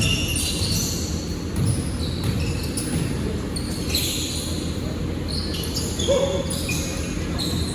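Basketball game in a gym: the ball bouncing on the court, with many short high squeaks of sneakers on the floor and voices echoing in the hall.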